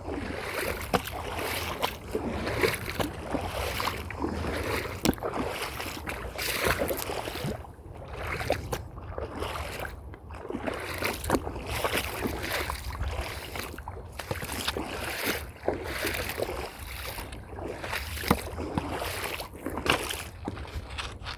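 Footsteps on a trail, one step every second or so, over a steady low rumble.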